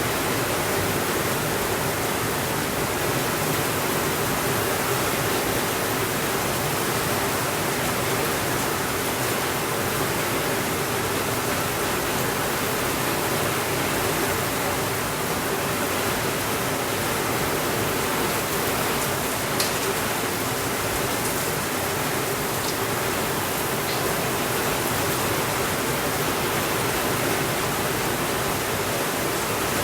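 Steady rainfall, an even hiss with no pauses and no thunder, with a few faint clicks about two-thirds of the way through.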